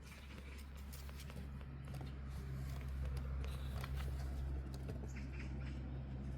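Kittens scuffling about in play: faint, scattered light taps and scratches over a steady low hum.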